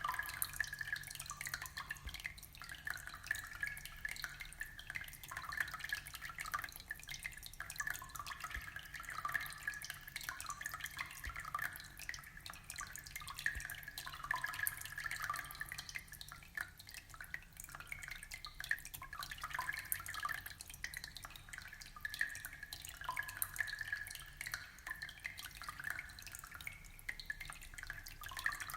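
Aquarium water trickling and bubbling steadily, a continuous patter of small drips and splashes.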